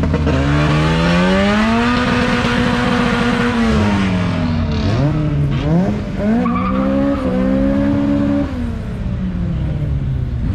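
Car engine revved hard and held at high revs while doing a burnout, with tyres spinning and squealing. The revs fall away about four seconds in, climb and hold again, then drop near the end.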